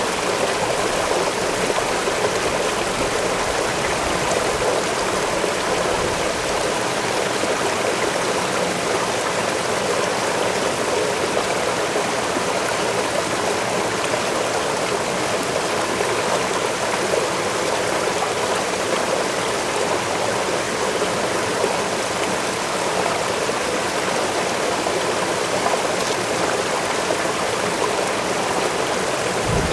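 Waterfall: falling water rushing steadily, an even noise with no letup or change.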